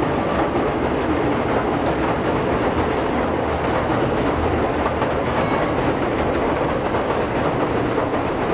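E001 Shiki-shima train running across a long railway bridge: a steady rumble of wheels on rail, with faint clicks every couple of seconds.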